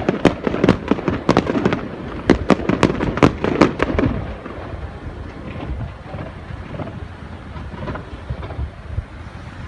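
Starmine fireworks display: a rapid string of sharp shell bursts, about three a second, then, about four seconds in, the bursts thin out into a lower, continuing rumble.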